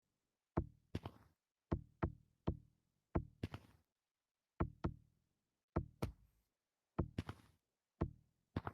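A run of sharp knocks, mostly in quick pairs, about one pair a second, each dying away fast.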